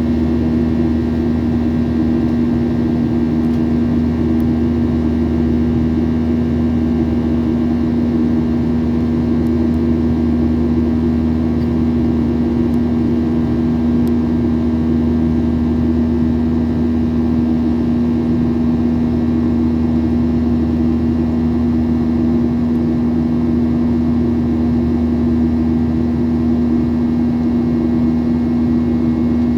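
Steady cabin drone of a Boeing 737-800 in flight, heard from inside the cabin: the CFM56 jet engines and rushing airflow, with a strong steady hum over the noise.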